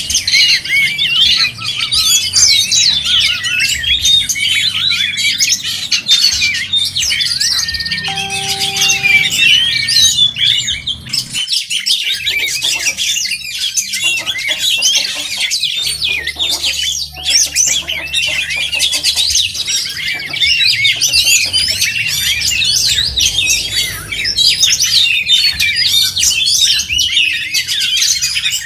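Oriental magpie-robins (kacer) singing: a dense, unbroken stream of quick chirps, trills and whistles.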